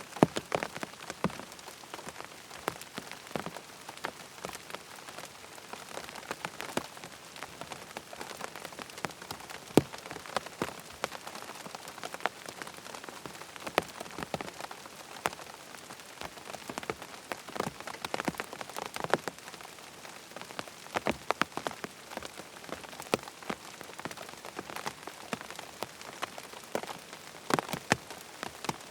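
Rain falling on a tent: a steady hiss of rain with irregular, individual drops tapping sharply on the tent fabric.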